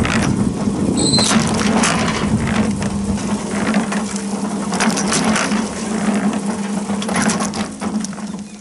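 Electric concrete mixer running, its drum turning on a freshly greased gear drive: a steady motor hum with clattering and grinding from the drum and gears, shutting off near the end. The ring gear may be loose and wobbling.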